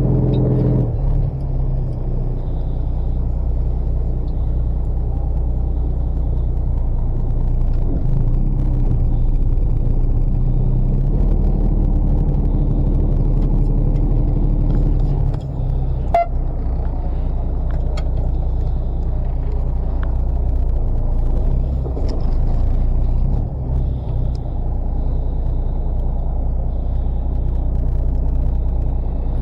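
A fishing boat's engine running steadily with a low rumble. Its note shifts about a second in and again around fifteen seconds in, and there is a sharp click about sixteen seconds in.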